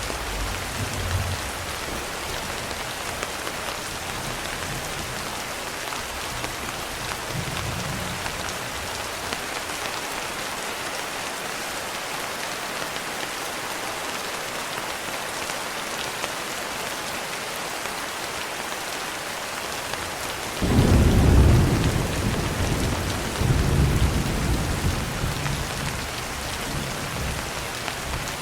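Steady heavy rain with a low thunder rumble dying away at the start. About two-thirds in, a sudden loud peal of thunder breaks in and rolls on for several seconds, swelling once more before fading.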